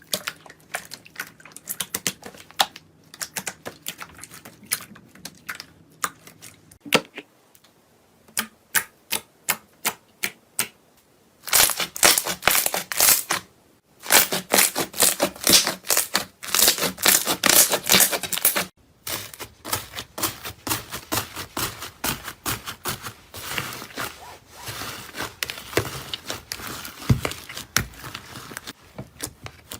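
Crisp clicking and crackling of a material being pressed and crushed, typical of ASMR satisfying videos. Separate sharp clicks come first, then about a third of the way in it turns to dense, loud crunching crackles in two long bursts, then a softer, steady crackle.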